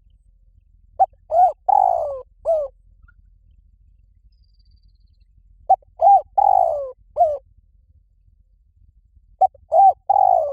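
Spotted dove cooing: a phrase of four or five short coos, one longer note falling in pitch, repeated three times about four seconds apart.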